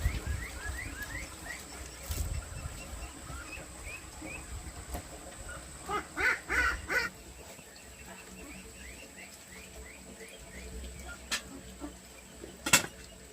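Young poultry peeping over and over in short, high chirps, with a brief burst of louder calls about six seconds in and a sharp knock near the end.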